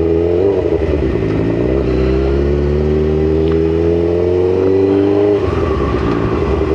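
Motorcycle engine pulling under acceleration, its pitch rising steadily, dropping back about half a second in and again at about five and a half seconds as the revs fall.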